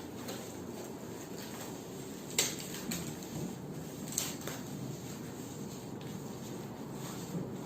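Steady room noise, with a few light clicks and knocks of things being handled, the sharpest about two and a half seconds in.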